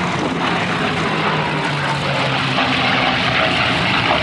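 Piston-engined North American P-51 Mustang fighters flying a formation display, their propellers and engines making a steady drone.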